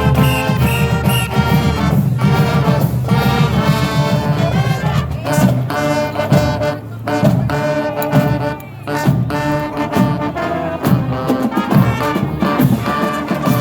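High school marching band playing a brass-led piece, with held chords from trombones and trumpets over drum strokes. The music dips briefly about two-thirds of the way through.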